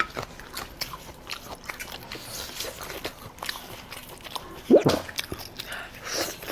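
Close-miked eating: biting and chewing with many small crunches and wet mouth clicks. A brief louder sound whose pitch bends comes about five seconds in.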